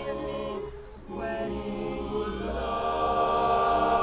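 Male a cappella group singing wordless sustained chords: one chord fades out in the first second, then a new chord begins about a second in and is held, swelling slightly, as the song's closing chord.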